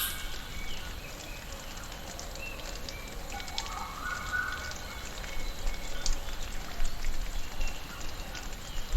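Tropical rainforest ambience: birds calling over a steady background hiss, with thin whistles and short chirps throughout and a longer layered call midway through.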